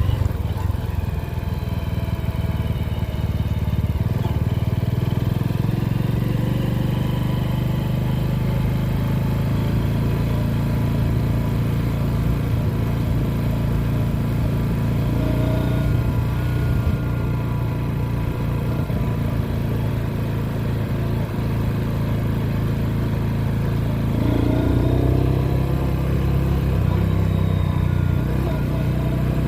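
Motorcycle engine running steadily while riding, its pitch shifting a little about halfway through and again near the end.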